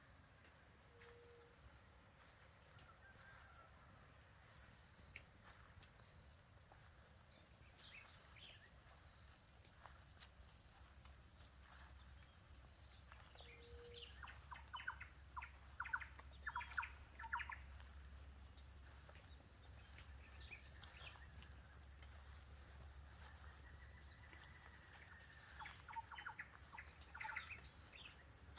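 Faint, steady chorus of crickets and other insects, with a bird calling in quick runs of short notes about halfway through and again near the end.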